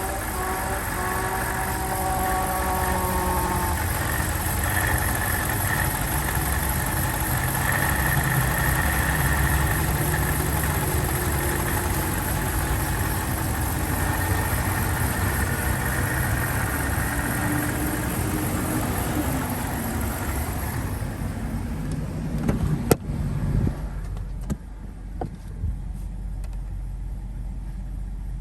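BMW 745Li's 4.4-litre V8 idling steadily after a cold start. About three-quarters of the way through, the higher hiss drops away and a few sharp knocks follow.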